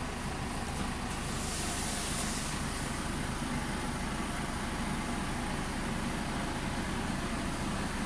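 Steady road-vehicle noise, an even hiss and low hum with no distinct events.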